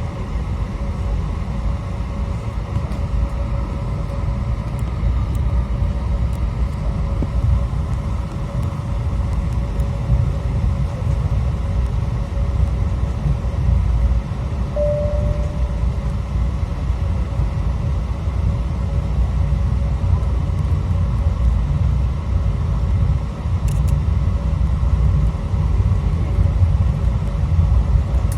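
Cabin noise inside an Airbus A321 on the ground before takeoff: a steady low rumble with a thin, constant hum over it.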